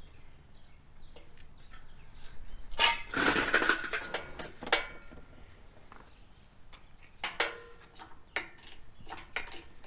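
Metal clanking and rattling as an engine and transmission are hoisted out of a car, loudest in a burst of clatter with some ringing about three seconds in, then scattered clicks and knocks.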